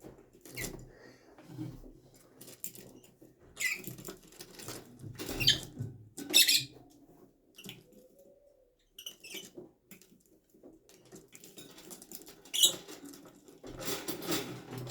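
Lovebirds stirring inside a nest: irregular scratching and rustling with short high squeaks.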